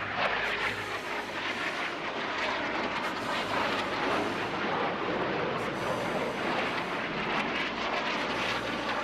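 Jet engines of Snowbirds CT-114 Tutor aircraft making a low pass overhead: a steady, dense rushing noise with no clear pitch.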